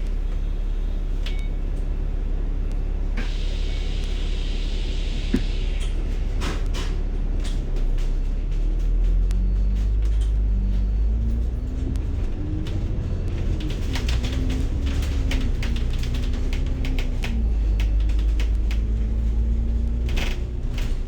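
Bus interior: a steady low engine rumble with rattles and clicks, and a short hiss about three seconds in. From about eight seconds in, an engine and gearbox whine climbs in pitch, drops back and climbs again in steps as the bus gathers speed and changes gear.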